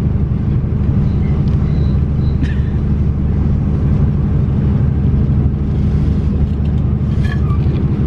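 Steady low rumble of a moving passenger train heard from inside the carriage, with a few faint ticks and rattles.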